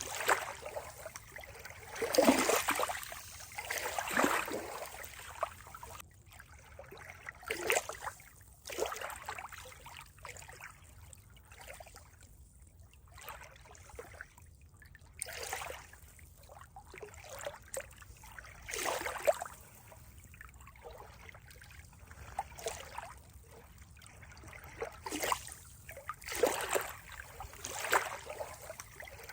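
Water trickling and splashing in irregular surges every second or two, with a quieter stretch partway through.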